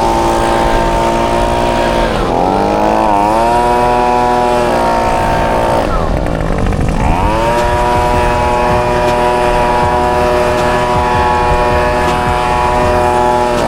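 A motor running steadily, its pitch dipping and then recovering twice, once about two seconds in and again around six to seven seconds in.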